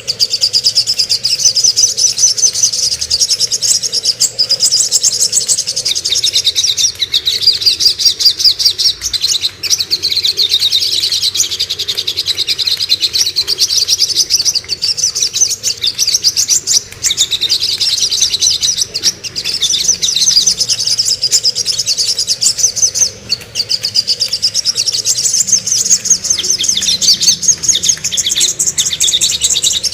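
Songbirds chirping and twittering in fast, continuous high-pitched phrases, with a few short breaks; a recording of cucak kombo and songok song.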